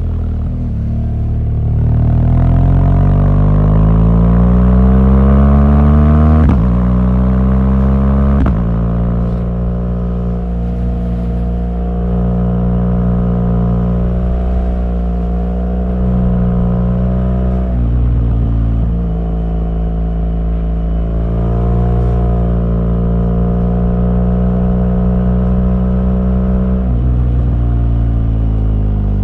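BMW R1200GS boxer-twin engine under way: the revs rise for the first six seconds, with two gear changes about six and a half and eight and a half seconds in, then hold steady at cruise; near the end the revs fall as the throttle closes.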